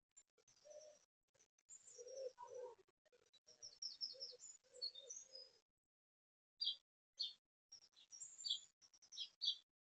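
Small birds chirping and twittering, with a pigeon cooing in a series of low notes during the first half; from the middle on only sharp, short chirps remain.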